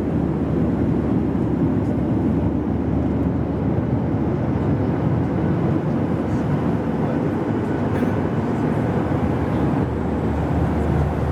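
Steady cabin noise of a Boeing 737-800 in flight, heard from inside the cabin: engine and airflow noise, even throughout.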